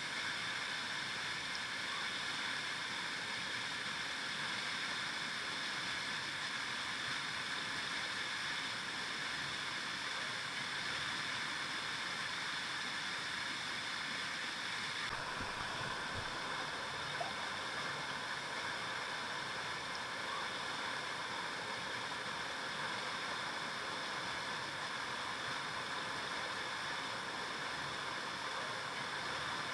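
River water flowing steadily over rocks, an even, continuous babble of running water.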